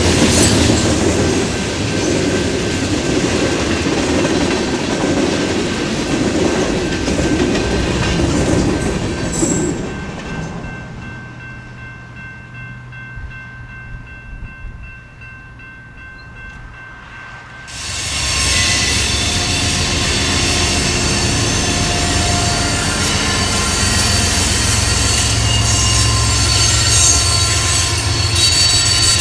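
Freight cars rolling past with their wheels clacking over the rail joints. About ten seconds in the sound drops to a quieter low hum with a few faint steady tones. About eighteen seconds in it rises again to a loud, steady passing roar: a BNSF GE diesel locomotive's engine drone and the train's wheels, with some high wheel squeal.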